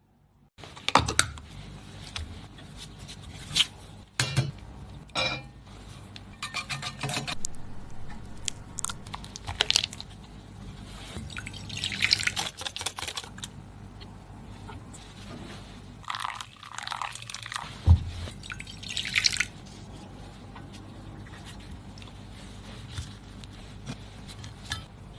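Kitchen food-preparation sounds: scattered sharp clicks and taps of utensils and containers, with a few longer hissy swishes, over a low steady hum.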